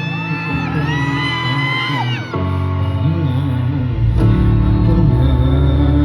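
Live pop music over a concert sound system: a singer holding long, gliding notes over the band, with whoops from the crowd. The music gets louder about four seconds in.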